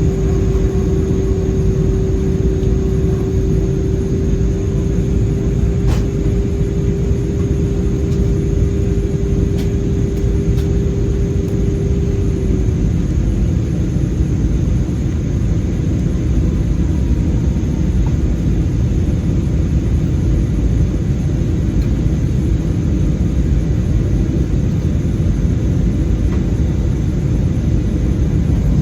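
Airbus A320 cabin noise in flight: a steady low rumble of engines and airflow. A steady hum in it stops about twelve seconds in, and there is a light click about six seconds in.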